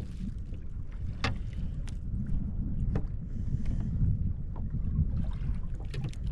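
Wind buffeting the microphone as a steady low rumble, with a few sharp clicks or knocks scattered through it.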